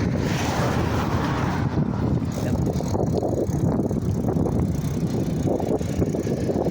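Riding noise from a bicycle: wind buffeting the microphone over tyre rumble. It comes as a steady, choppy low rush.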